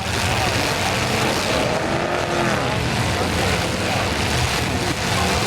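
Several demolition derby cars' engines running at once, with pitch rising and falling as they rev, over a steady wash of noise.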